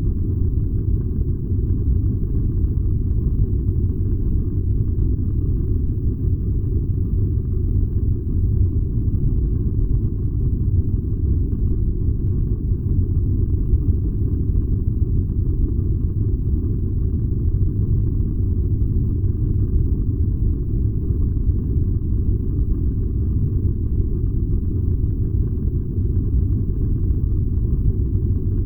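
Furnace burning with a steady, unchanging low rumble.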